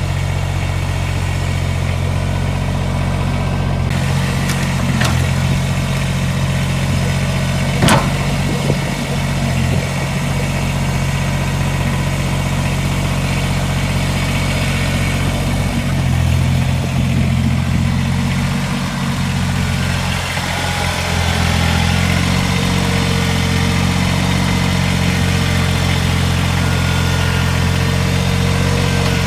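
Kubota BX2380 sub-compact tractor's three-cylinder diesel engine running steadily, with a few sharp knocks about four, five and eight seconds in.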